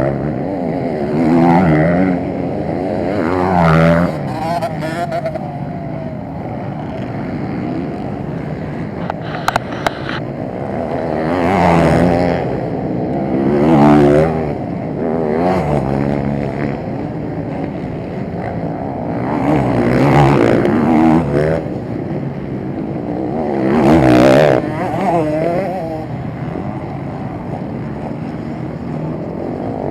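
Motocross motorcycles racing on the track, their engines repeatedly revving up and dropping back as they accelerate and pass. Louder surges come every few seconds, about six of them.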